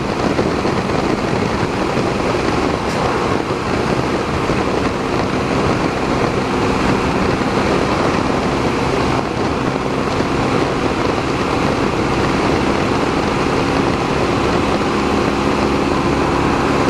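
Motorcycle cruising at highway speed: steady wind rush over the microphone with a constant low engine drone underneath.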